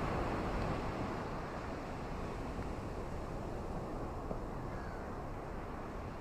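Steady low wash of ocean surf on a beach, a little louder at the start and easing off slightly.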